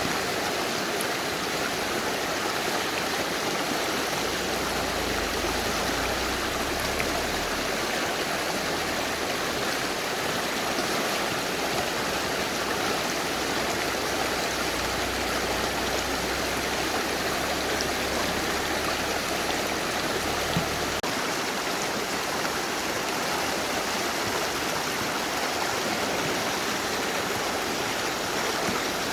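Mountain river rushing steadily over its bed, a constant, even wash of water noise.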